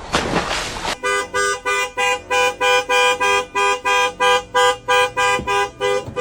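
After a short noisy burst, a rapid run of short honking tones, about three a second, each on nearly the same pitch.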